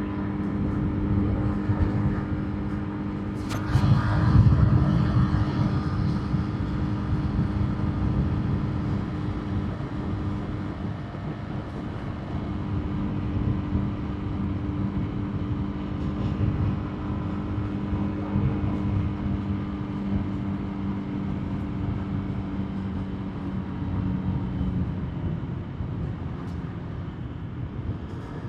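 Motorbike engine running steadily while riding, over a low rumble of wind and road noise. About three and a half seconds in there is a sharp click, then a brief louder rush of noise.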